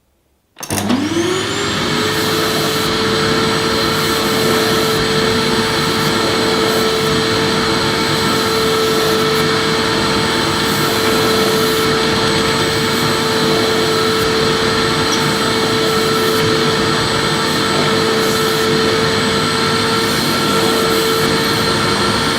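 Electric vacuum cleaner switched on about half a second in, its motor whine rising quickly in pitch as it spins up, then running steadily with a loud rush of air.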